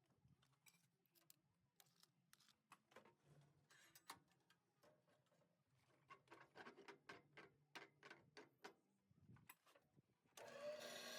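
Near silence with faint scattered clicks and taps. A steady hiss starts about ten seconds in.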